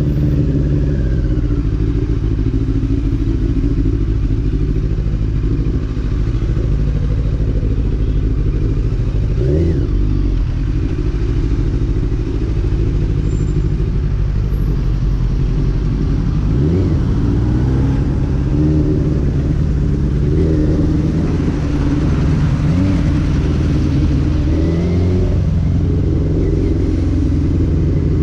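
Motorcycle engine running steadily while riding, rising in pitch several times as it accelerates through the gears.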